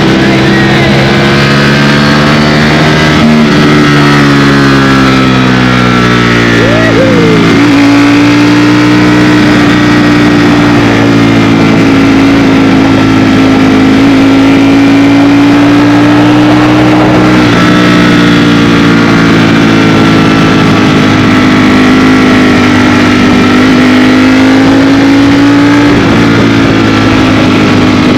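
Ducati Streetfighter V4S's V4 engine running steadily under way on a ride, its note changing a few times as the revs shift.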